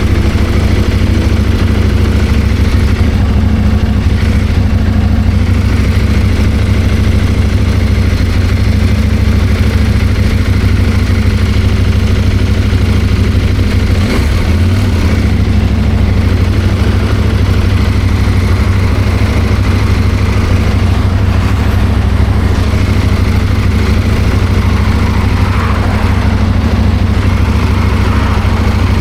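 CFMOTO 800MT's parallel-twin engine running at a steady speed, with a steady hiss over it.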